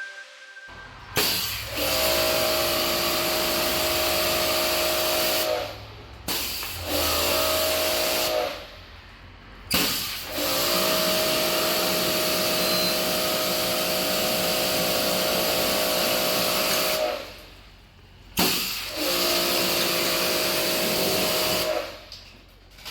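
Pressure washer spraying water in four bursts of a few seconds each: a loud hiss over a steady motor hum, starting and stopping abruptly each time.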